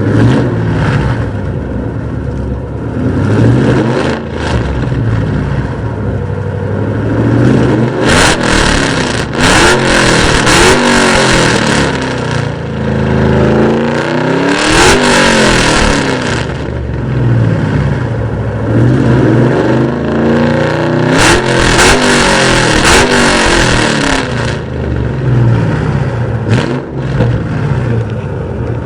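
2006 Ford Mustang GT's 4.6-litre V8 revved repeatedly through JBA long-tube headers, an off-road H-pipe and SLP Loudmouth axle-back mufflers. The revs are short blips and longer climbs that fall back toward idle between them.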